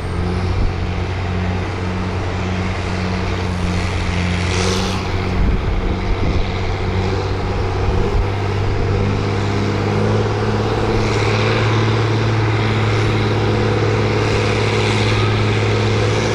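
Farm stock tractor engine running hard under load, pulling a sled down the track; it runs steady, then a little higher and louder from about ten seconds in.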